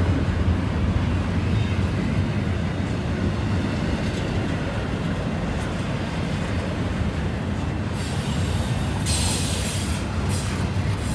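Double-stack container well cars rolling past on a curve: a steady low rumble of wheels on rail, with high-pitched wheel squeal from the flanges on the curve coming in about eight seconds in, loudest for about a second, then in short bursts.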